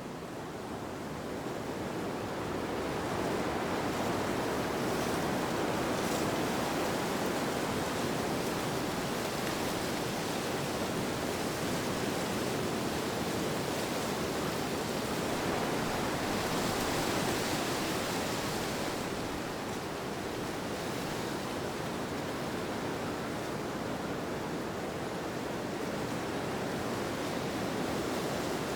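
Steady rushing wind that swells over the first few seconds, then holds, easing slightly about two-thirds of the way through.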